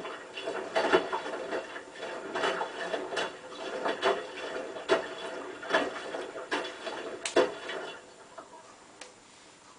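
Hotpoint WT960 washing machine drum turning with a light load of two face cloths, knocking and sloshing a little over once a second, then going quiet about eight seconds in.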